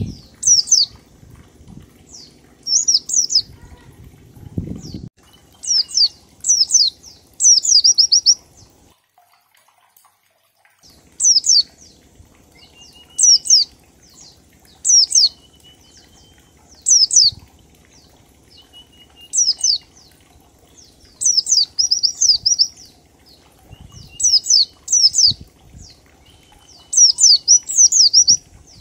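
White-eye (pleci) singing in the 'ngalas' style: short, high phrases of one to four quick downward-sweeping notes, repeated every second or two, with a brief pause about ten seconds in. Fainter thin whistles sit beneath some of the phrases.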